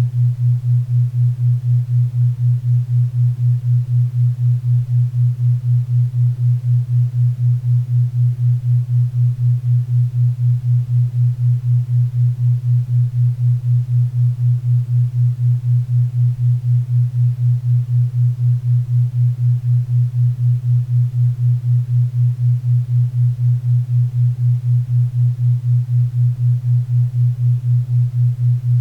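Low hum-like tone of a 4 Hz theta-wave beat, pulsing evenly about four times a second, with faint pink and brown noise hissing beneath it.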